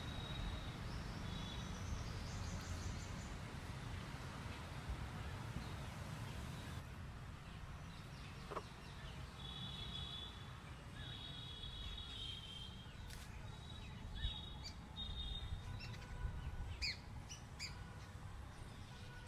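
Small birds chirping, with short, repeated high whistled notes and quick sharp chirps that come thicker in the second half, over a steady low rumble.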